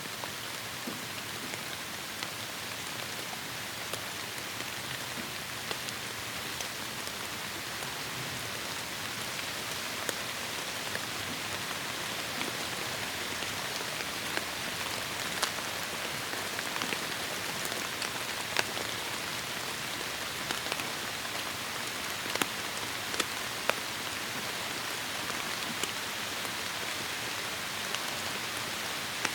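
Heavy rain falling steadily in a forest, a dense even hiss with individual drops striking close by, a few louder drop hits in the second half.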